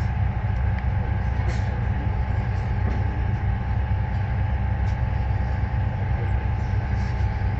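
Steady low hum and drone of a standing Alaska Railroad passenger train, heard from inside a passenger car as it idles, with a faint steady whine above the hum.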